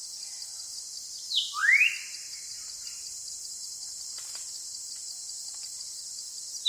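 A steady, high-pitched insect chorus drones throughout. About a second and a half in, a bird calls loudly: a short falling note, then a rising whistle. Another falling call begins right at the end.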